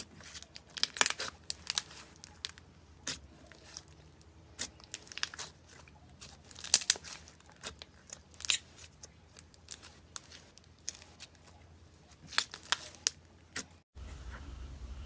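Dry soap being cut and broken: irregular sharp, crisp crunching and scraping strokes, some in quick clusters. About 14 seconds in they stop abruptly and a faint steady low hum takes over.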